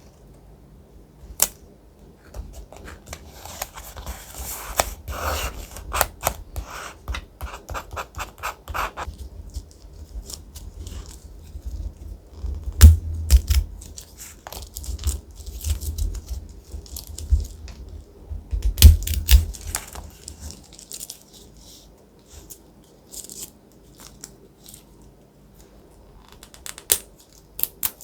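Thick paper being handled for a collage journal page, with irregular rustling and crisp crackles. A few louder knocks come in the middle, around the halfway mark.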